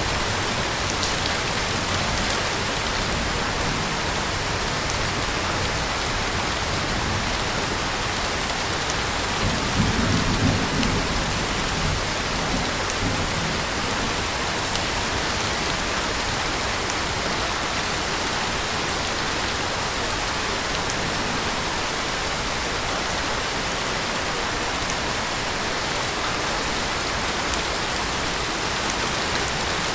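Heavy rain falling steadily, an even dense hiss of downpour. About ten seconds in, a short low rumble swells for a couple of seconds over the rain.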